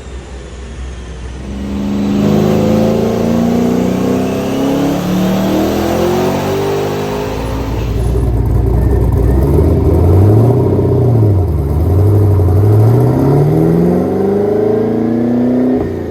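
Twin-turbocharged LS1 V8 of a 2001 Pontiac Trans Am WS6 on a chassis dyno, making a long full-throttle pull: about two seconds in the engine gets louder and its note climbs slowly and steadily for some fourteen seconds, then falls away suddenly near the end as the throttle is closed.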